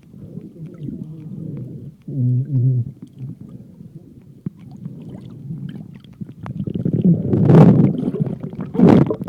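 Muffled underwater rumble picked up by a phone sealed in a plastic underwater pouch, with a short low hum about two seconds in. From about seven seconds in it turns into loud rushing and sloshing in surges, as water and the pouch move against the microphone.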